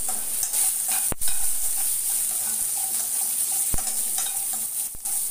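Whole shallots and peeled garlic sizzling in hot oil in an aluminium kadai while a metal ladle stirs them. Three sharp clicks are spaced through the sizzle.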